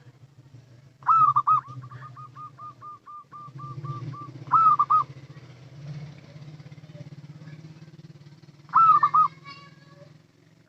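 Zebra dove (perkutut) cooing: three loud phrases of two or three quick coos, roughly four seconds apart. The first is followed by a run of short, softer repeated notes, about five a second. A low steady hum runs underneath.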